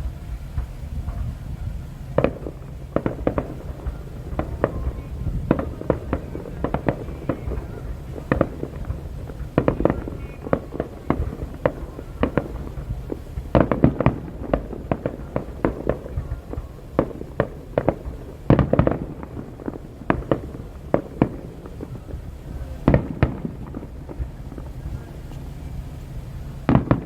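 Fireworks display: aerial shells bursting in an irregular string of sharp bangs, some in quick clusters, over a steady low background rumble.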